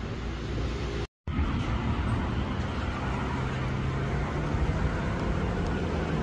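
Street traffic noise, cut off briefly about a second in, then a Ferrari FF's V12 engine running low as the car drives slowly past, its pitch rising a little midway.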